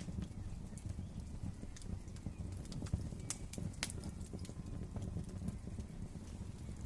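Wood fire burning in a fireplace: a steady low rumble with sharp crackling pops scattered through it, the loudest about three to four seconds in.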